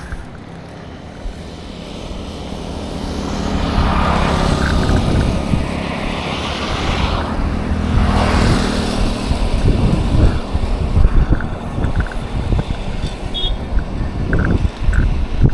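Motor vehicle engine drone on a road, growing louder over the first few seconds, with vehicles passing close about four and eight seconds in. Low wind rumble on the microphone runs underneath.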